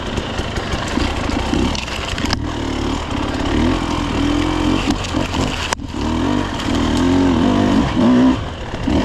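Dirt bike engine revving up and down under changing throttle while riding a twisty trail, its pitch rising and falling, with two brief throttle cuts.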